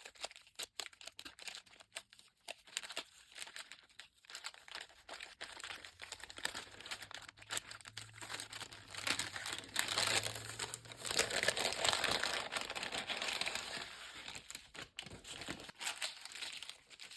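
Packaging crinkling and rustling as items are handled and unwrapped, with small clicks. It gets busier and louder in the middle.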